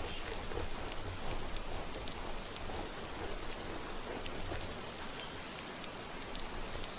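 Steady rain falling, an even hiss of rain on a surface with scattered drops, and a brief higher rustle about five seconds in.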